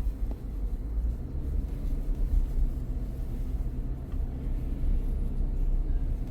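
Steady low rumble of a car driving along at low speed, engine and tyre noise heard from inside the cabin.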